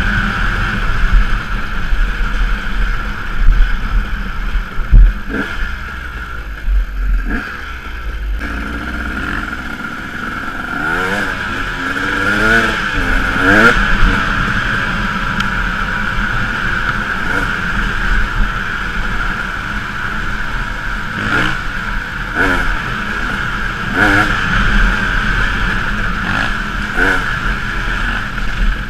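Enduro dirt bike engine under way on a rough gravel track, heard from a camera mounted on the bike. The engine drones steadily and its pitch rises and falls several times about a third of the way in as the throttle is worked, with scattered knocks and rattles from the rough ground.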